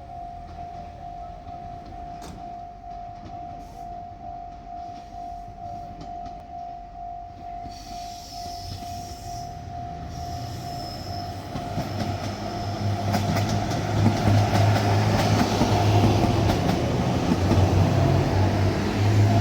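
A Japanese level-crossing alarm rings in a steady, pulsing tone. From about halfway a diesel train comes in, and its engine drone and wheel noise swell until they are the loudest sound.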